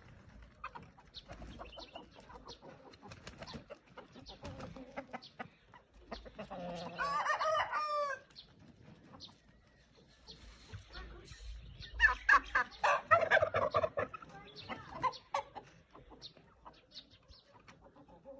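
Domestic chickens clucking with scattered short calls, and a rooster crowing once, a long call about six and a half seconds in. A louder run of rapid calls comes about twelve seconds in and lasts some two seconds.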